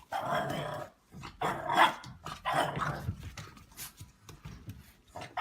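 A dog vocalising in a series of short bursts.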